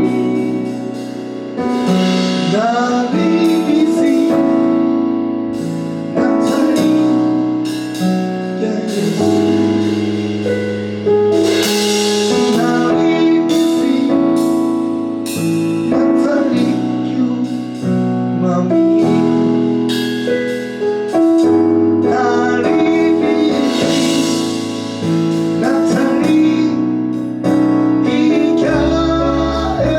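Gospel worship music led by a keyboard playing held chords that change every second or two, with a singer's voice weaving in and out over them.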